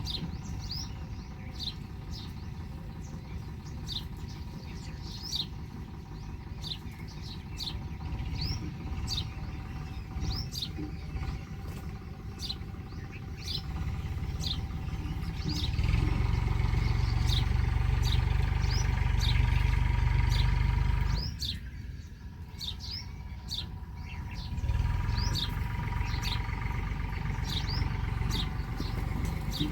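Small birds chirping, short sharp falling chirps, roughly one or two a second, over a low rumble that swells about halfway through, dips briefly, and rises again near the end.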